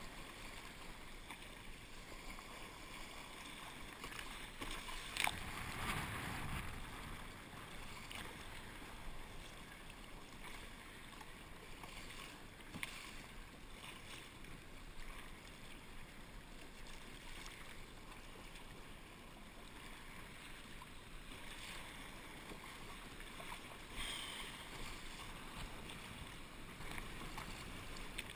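Water sloshing and lapping around a kayak, with a few splashes and knocks; the loudest, a sharp knock followed by a splash, comes about five seconds in.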